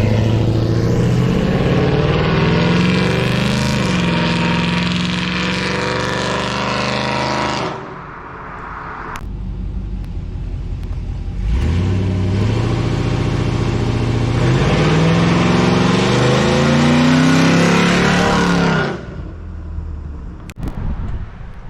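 6.0-litre LS V8 in an old-body-style Chevy truck, running through a Corsa 3-inch stainless dual-muffler exhaust, revving up twice. Each time the engine pitch climbs for about seven seconds, with a brief dip about four seconds in, and then falls away sharply.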